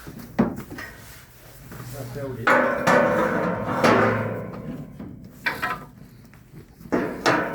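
A string of hollow knocks and rattling bangs from the metal of a livestock trailer and its gates as a bull is moved into it. The loudest cluster comes a few seconds in, and a few single bangs follow.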